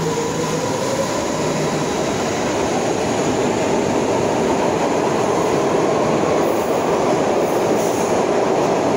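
SEPTA Regional Rail electric commuter train accelerating out of an underground station: a rising electric motor whine in the first couple of seconds gives way to a steady, loud rumble of wheels on rail as the cars speed past.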